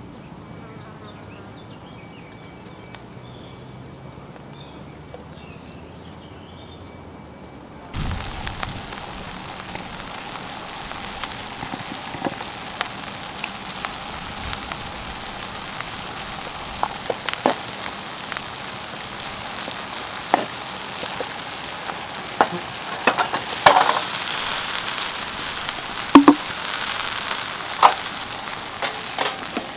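Mushrooms frying in a pan over a wood fire: a dense sizzle starts abruptly about eight seconds in, after a quiet stretch with a faint steady high tone. Scattered pops and crackles grow louder toward the end.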